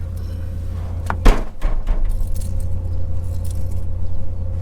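Keys jangling, then a truck door shutting with a single loud thump about a second in, followed by a steady low rumble.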